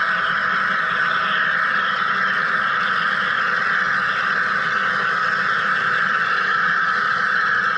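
Wire EDM machine cutting, giving off a steady buzzing noise that does not change in level.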